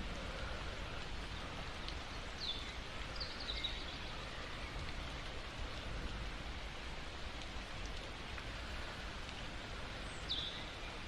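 Steady rain falling, an even hiss, with a few short, high, falling chirps about two to four seconds in and once more near the end.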